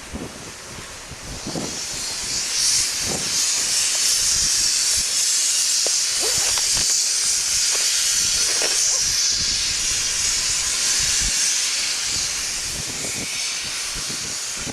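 R-class steam locomotive venting steam with a loud, steady hiss that swells about two seconds in and holds, with a few faint knocks underneath.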